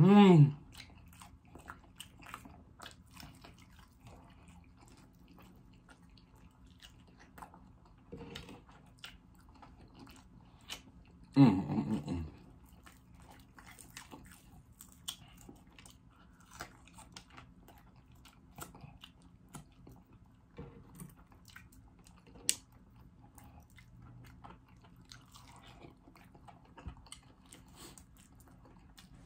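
Close-up chewing and biting of pancake-battered fried chicken: scattered small crunches and wet mouth clicks. A short hummed 'mm' comes right at the start, falling in pitch, and a louder one about eleven seconds in.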